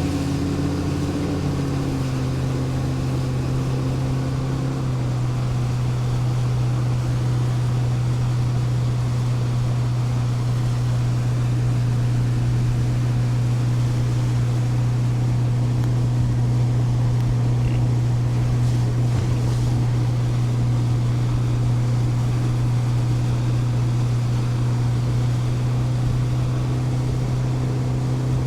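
Boat motor running at a steady speed, an even drone that settles slightly lower in pitch in the first few seconds and then holds.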